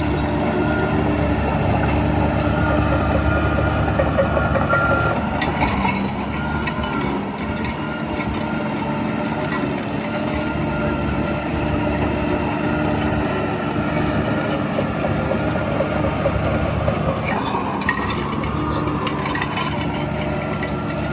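Heavy diesel engine of earthmoving machinery running steadily, with a few scattered clanks about six seconds in and again near the end.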